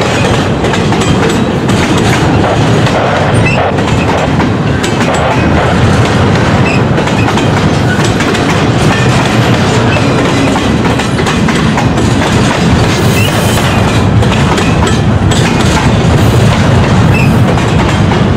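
Double-stack container well cars of a CN intermodal freight train rolling past close by: a steady, loud, deep rumble with scattered clicks of wheels over the rails.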